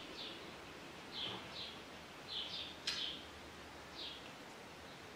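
Faint, short, high bird chirps, scattered every half second or so, with a single sharp click about three seconds in.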